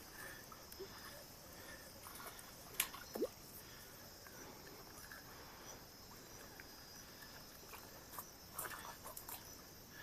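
Faint, steady high-pitched chirring of insects, with a few sharp clicks: one about three seconds in and a small cluster near the end.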